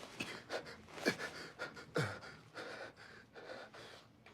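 A person breathing hard: three short, sharp gasping breaths about a second apart, each dropping in pitch, followed by fainter breathing.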